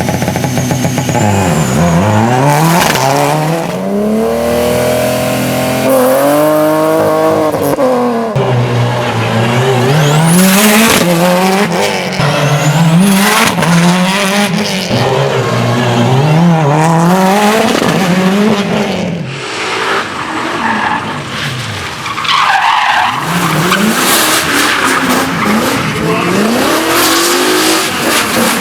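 High-performance car engines revving hard, their pitch climbing and dropping again and again through throttle blips and gear changes, with sharp exhaust pops and bangs between.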